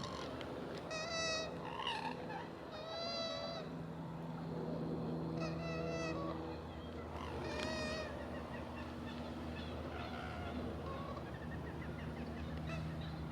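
A wild bird gives four wavering, honking calls about two seconds apart, over a steady low hum.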